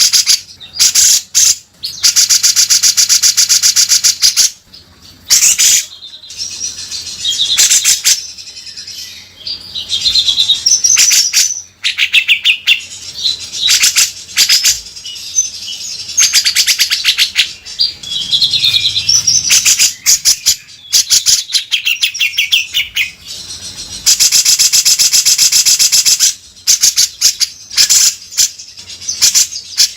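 Cucak jenggot (grey-cheeked bulbul) singing loudly and incessantly: rapid, high trills and harsh, rasping 'beset' phrases, repeated in bursts with short gaps between them.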